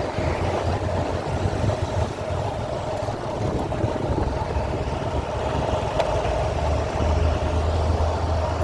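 A vehicle engine running steadily, a low rumble under a constant hum, with road and traffic noise.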